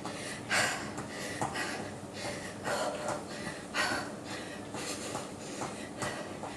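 A woman breathing hard from exertion, with short, forceful breaths about once a second.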